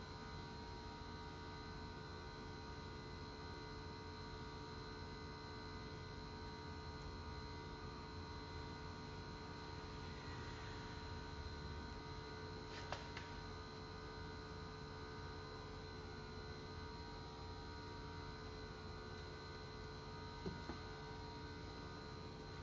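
A faint, steady electrical hum made of several constant tones, with a faint click about halfway through and another near the end.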